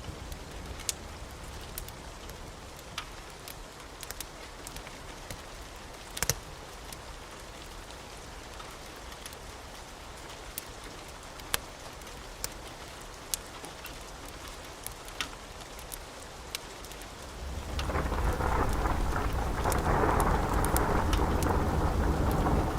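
Steady rain with scattered sharp crackles from a wood fire. About three-quarters of the way in, thunder rumbles in, grows louder and keeps rolling.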